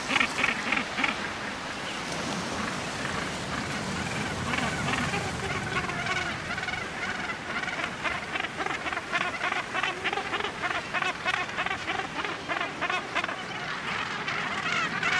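A crowded Cape gannet breeding colony, many birds calling at once with short, harsh, rapidly repeated calls that overlap into a dense chorus, growing busier about halfway through.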